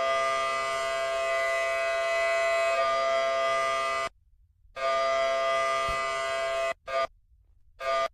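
A loud, steady, horn-like chord of many held tones. It sounds for about four seconds, then for about two seconds, then in two brief blasts, each cut off abruptly.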